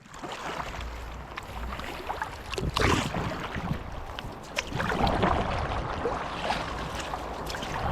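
Kayak paddle strokes splashing and dripping in lake water, with louder splashes about three and five seconds in, over low wind rumble on the microphone.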